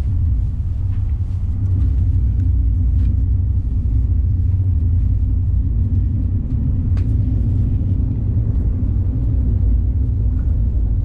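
Steady low rumble of a moving passenger train heard from inside the carriage, with a couple of faint ticks.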